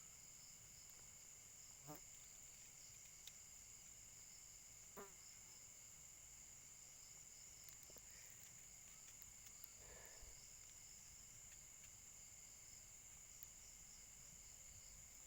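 Faint, steady chirring of insects such as crickets, a continuous high-pitched drone. Two brief faint chirps stand out about two and five seconds in.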